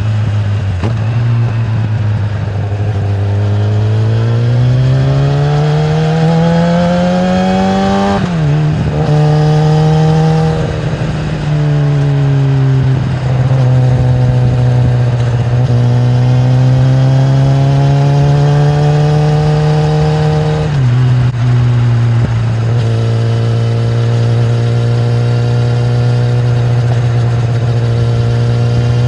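2013 Kawasaki ZX-10R's inline-four engine through its stock exhaust, ridden on the road. The engine note rises steadily for several seconds under acceleration and drops sharply about eight seconds in at a gear change. It then climbs slowly again, drops once more near the twenty-one-second mark and runs steadily.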